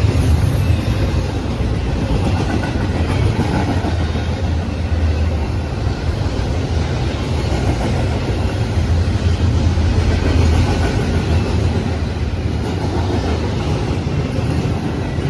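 BNSF freight train passing close by: a steady low rumble of the train rolling on the rails.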